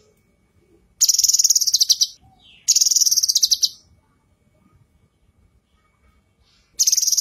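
Female cucak kinoi calling: three bursts of fast, high chattering, each about a second long. The first two come close together, and the third starts near the end.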